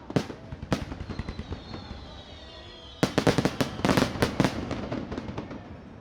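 Aerial fireworks bursting: a couple of sharp bangs and some crackle near the start, then a dense volley of bangs and crackling about three seconds in that dies away toward the end. A faint falling whistle is heard before the volley.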